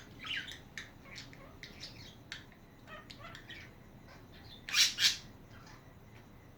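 Pet budgerigars chattering in quick, high chirps, with two loud squawks in quick succession about three-quarters of the way through.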